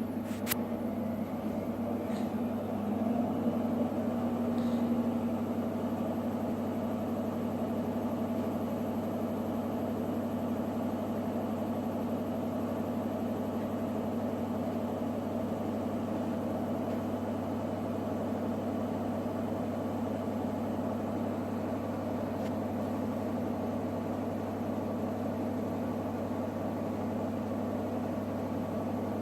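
Electrolux WD41A84160 washing machine running, its drum spinning at a steady speed with a constant motor hum and drone. A single sharp click comes just after the start.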